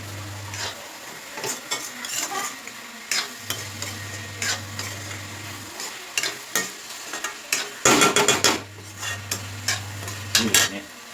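Spatula stirring and scraping onions and tomatoes sautéing in a pan, with sizzling and irregular clinks against the pan, and a quick flurry of loud scrapes about eight seconds in.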